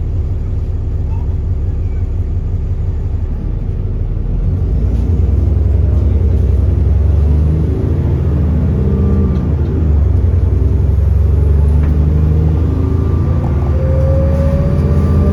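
Alexander Dennis Enviro400 double-decker bus's diesel engine pulling hard under acceleration, its pitch climbing, dropping with an automatic gear change about nine seconds in, then climbing again. A thin rising whistle, the turbocharger, joins near the end.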